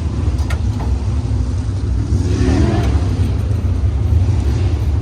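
Steady low rumble of a motor vehicle running, with a faint wavering sound in the middle.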